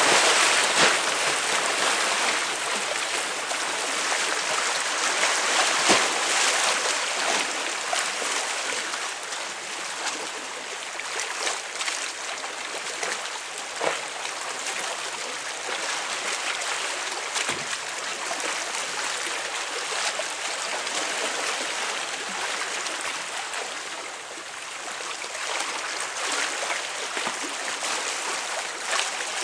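Waves washing against and breaking on concrete tetrapods of a seawall: a continuous hiss of churning water with scattered short splashes, loudest in the first several seconds.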